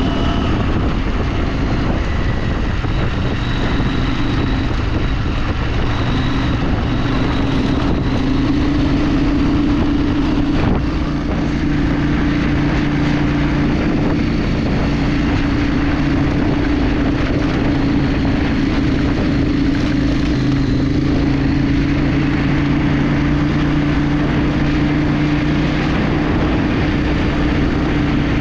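A vehicle engine drones at a steady pitch, held at a constant speed, over road and wind noise.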